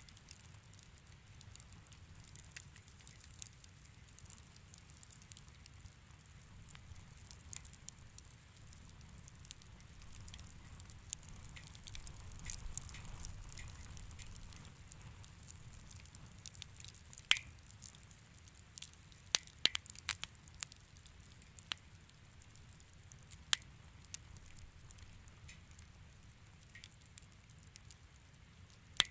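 Wood fire burning in a fireplace, crackling with scattered sharp pops over a low steady rumble. The pops come thickest a little past the middle.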